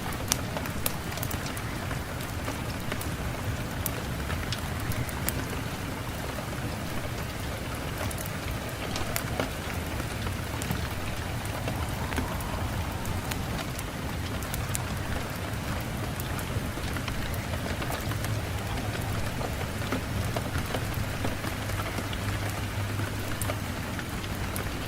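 Steady rain falling, with a continuous hiss and scattered individual drops ticking on a surface, over a low rumble.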